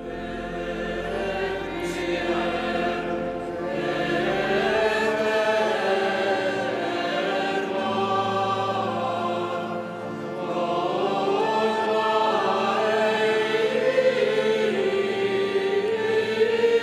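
Choir singing a slow liturgical chant in long, held notes that move gradually in pitch.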